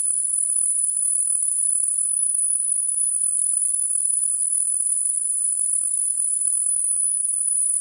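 Steady, high-pitched insect drone, unbroken and unchanging, with a fainter wavering tone beneath it.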